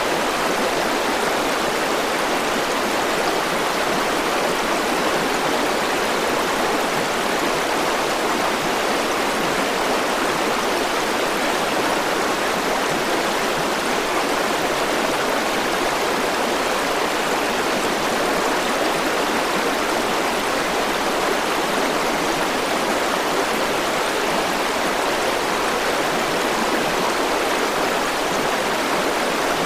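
River water flowing and rushing steadily over stones, a constant even rush with no pauses or changes.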